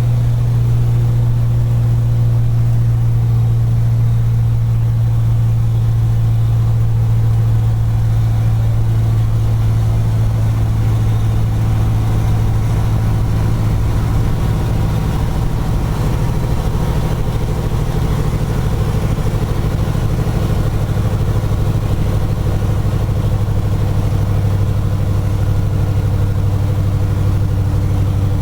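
Scania 143 450's 14-litre V8 diesel running steadily with a deep, even hum, its note dropping slightly about halfway through.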